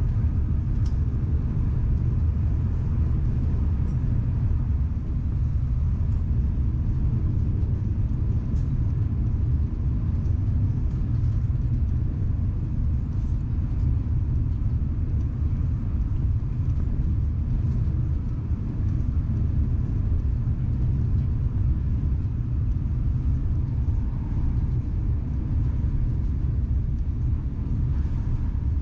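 Steady low rumble of a Southeastern Class 395 Javelin electric train running on the line, heard from inside the carriage.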